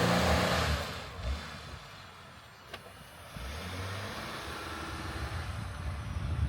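A 4x4's engine revs loudly at first, pushing into deep, heavy snow, then drops back to a steady low running about three seconds in. The rig cannot get through the snow.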